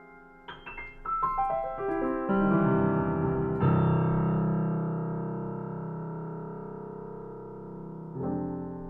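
Piano playing a run of notes stepping down in pitch, then a loud chord struck and left to ring and fade, and another chord struck near the end.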